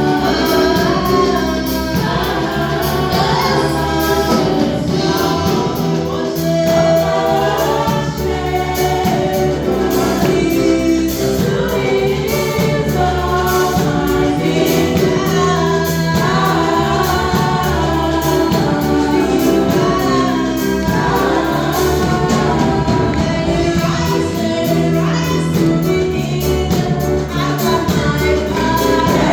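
Gospel worship song: a choir singing over a full instrumental band with a steady beat.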